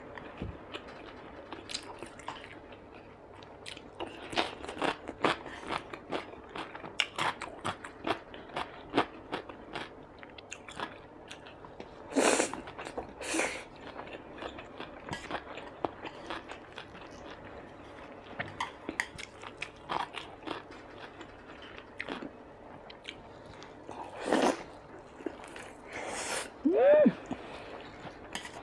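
A person chewing a mouthful of food close to the microphone: a steady run of short wet mouth clicks and smacks, with a few louder noises around the middle and near the end.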